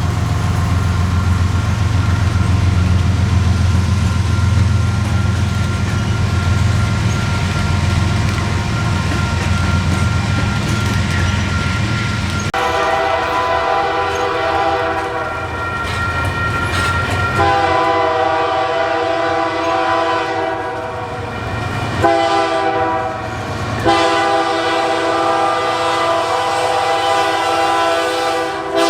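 Diesel locomotive running with a heavy low engine rumble. About halfway through, its multi-chime air horn sounds the grade-crossing signal: two long blasts, a short one, then a long one.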